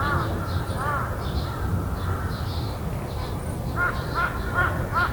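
A crow cawing: two caws in the first second, then a quicker run of four caws near the end. Under it is a steady low rumble, with faint high chirps from small birds.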